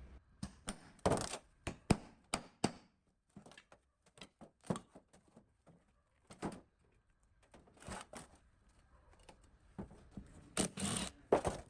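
Irregular series of sharp clicks and knocks from tools and pump parts being handled during workshop restoration work, with a few louder knocks near the end.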